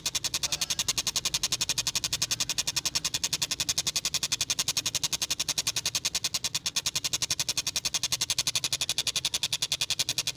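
Tengkek buto kingfisher calling in a fast, unbroken run of sharp repeated notes, about ten a second.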